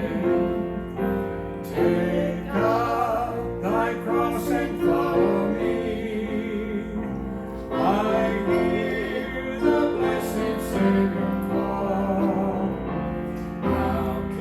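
A solo singer with a strong vibrato singing a sacred song about Jesus' sacrifice, accompanied by piano.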